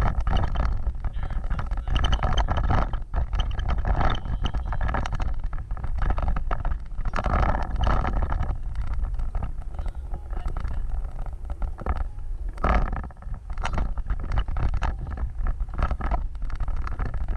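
Off-road vehicle driving over rough ground: a steady low rumble with frequent irregular knocks and rattles.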